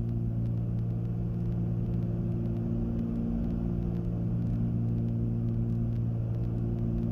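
Cessna 310Q's twin six-cylinder piston engines and propellers running with a steady, even drone in cruise through the landing pattern, with no change in power.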